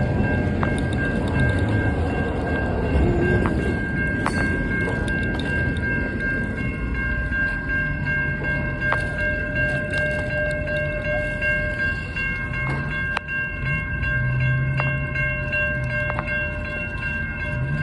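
Union Pacific freight train of empty intermodal well cars rolling past, with sharp clicks from wheels crossing rail joints and a steady high-pitched ringing squeal over the rumble.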